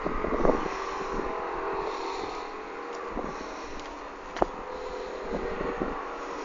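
An unexplained steady drone of several held tones hangs over the night air, heard as eerie and unnerving. A low rumble runs beneath it, and a single sharp click comes about four and a half seconds in.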